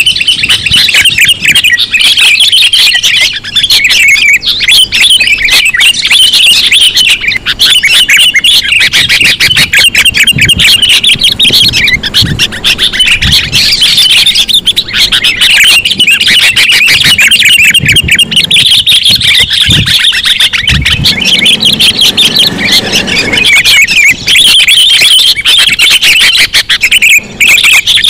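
Sooty-headed bulbul calls: dense, rapid, loud chattering chirps that carry on without a break, the kind of recording played as a bird-trapping lure. A few low thumps come in around the middle.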